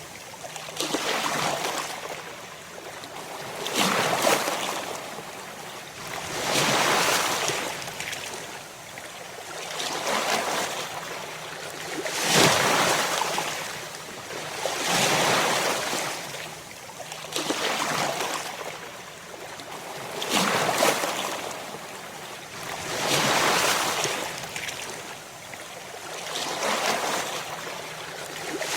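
Ocean waves crashing, each wave surging and falling away in turn, one about every two and a half to three seconds.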